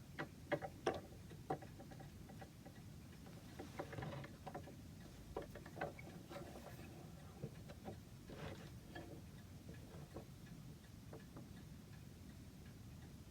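Irregular light taps and clicks, scattered and unevenly spaced, a few with a short ring.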